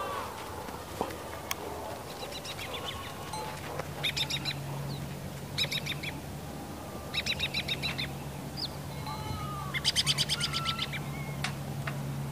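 Small birds chirping: a quick trilled phrase repeated every second or two, with a steady low hum coming in about three seconds in.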